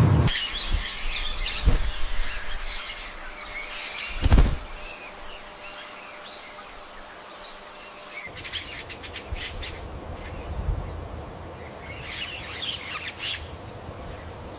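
Small birds chirping and twittering in several bursts, with two low thumps in the first few seconds, the second louder.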